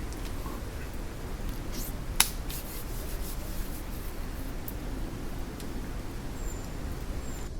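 One sharp crack or snap about two seconds in, with a few lighter clicks, over a steady low rumbling background noise.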